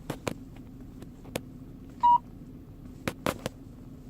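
Two-way radio being operated by hand: a scattering of sharp button clicks, with one short, loud electronic beep about two seconds in.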